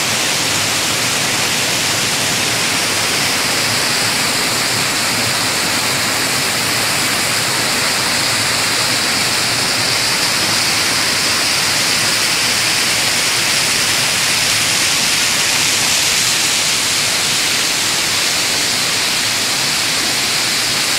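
Water curtain of falling water: a steady, loud rush of water pouring down and splashing.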